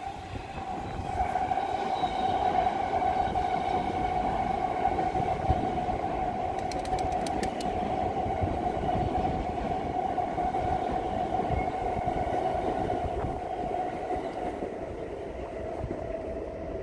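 NS ICMm 'Koploper' electric multiple unit running across a steel girder railway bridge: a steady rumble of wheels on rail with a high ringing tone held over it. A quick run of sharp clicks comes about seven seconds in.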